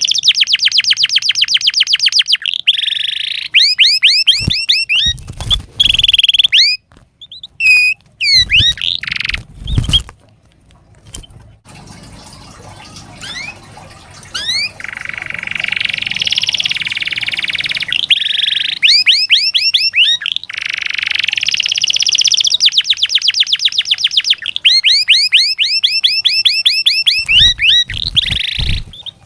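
Domestic canary singing: long, loud runs of rapid trilled notes and rolls, broken by short pauses and a quieter stretch in the middle. A few low thumps come early on and again near the end.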